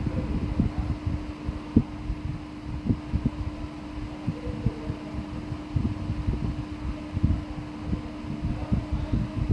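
A steady hum under irregular low thuds and buffeting.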